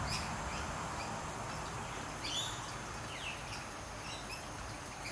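Several birds calling with short, scattered chirps and quick falling notes, over a steady hiss of light rain.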